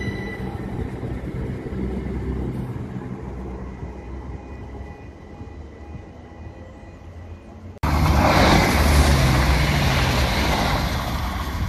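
A passenger train running past on the rails, its rumble slowly fading. Then, after a sudden cut about 8 s in, a CrossCountry Class 170 diesel unit passes close at speed with a loud rush and rumble of wheels on rails.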